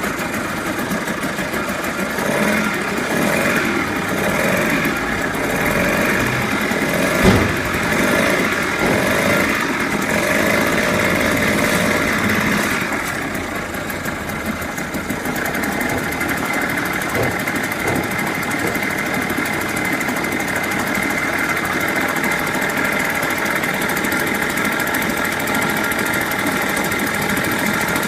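Mercury 2.2 hp two-stroke outboard motor running on test, louder for the first dozen seconds, then settling to a slightly lower, steady run. A single sharp knock about seven seconds in.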